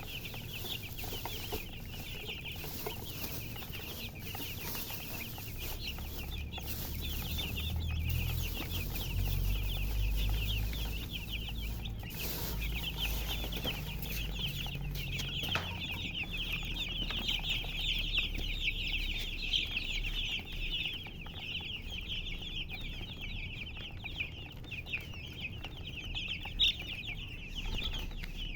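A group of young chicks peeping continuously, many short high chirps overlapping into a dense chorus.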